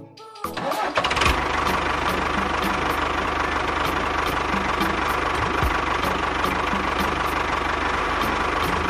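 An engine starting up, building over the first second and then running steadily and loudly, over music with a regular beat.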